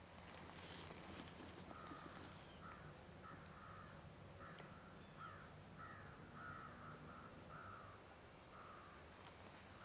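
A bird calling faintly: a run of about a dozen short calls, roughly two a second, starting about two seconds in and stopping near the end.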